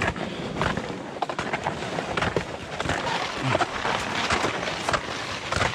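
Trudging through wet, melting snow and slush: a dense run of irregular crunching, cracking and rustling.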